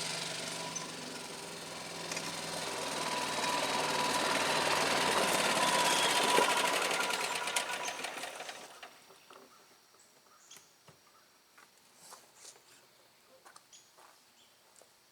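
Yamaha gas golf cart engine running, getting louder to a peak about six seconds in, then dying away and stopping about eight to nine seconds in. Faint ticks and clicks follow. The engine is running after its starter/generator was repaired with new brushes.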